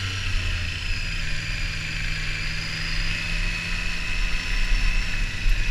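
Triumph Street Triple R's three-cylinder engine running at a steady speed on the move, under steady wind and road noise, with a faint high whine drifting slowly lower.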